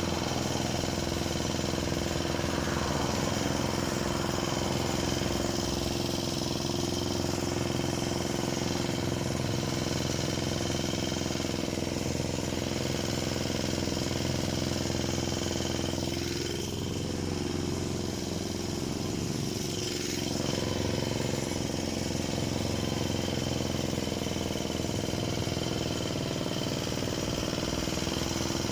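Parma BP-058 two-stroke chainsaw running steadily, with a brief drop in level and pitch content a little past the middle.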